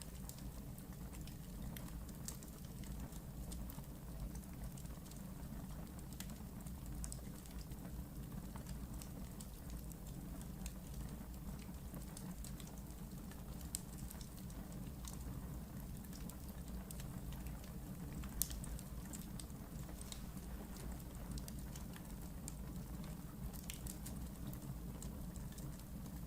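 Wood fire burning in a fireplace: a steady low rumble of flames with scattered small crackles, and a couple of louder pops past the middle.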